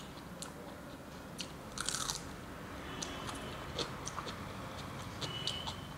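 A person chewing mouthfuls of rice and vegetables eaten by hand, close to the microphone: mouth sounds with irregular small clicks and a short crunch about two seconds in.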